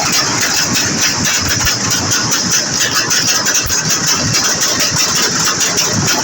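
A vehicle engine running loud and steady.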